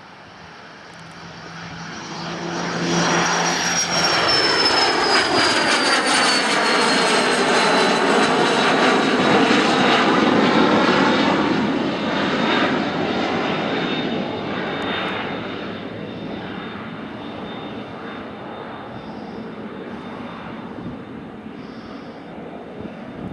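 Cessna 525 CitationJet's twin Williams FJ44 turbofan engines at departure power, passing by. The jet noise builds to loud, a high engine whine drops in pitch as the aircraft goes past, then the sound slowly fades away.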